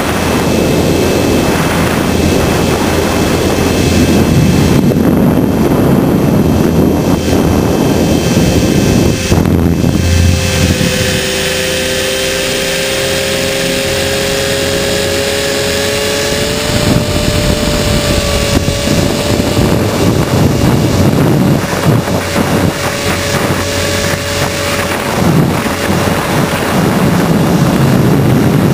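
HK500 RC helicopter in flight, heard from its onboard camera: rotor and motor noise with heavy wind buffeting. From about ten seconds in a steady whine comes through for several seconds, rising slightly in pitch.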